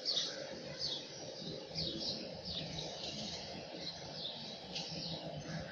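Small birds chirping outside, a run of short, high, falling chirps about two a second, over a steady background hum.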